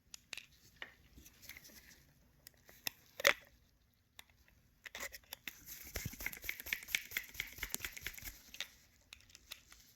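Small plastic-and-metal handling clicks from a motorcycle handlebar switch housing being fitted, then a quick run of small ticks from about five seconds in as a Torx T8 screw is driven into the plastic housing.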